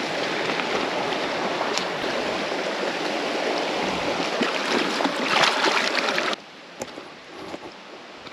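Creek water rushing steadily over rocks. It cuts off abruptly about six and a half seconds in, leaving a much quieter background.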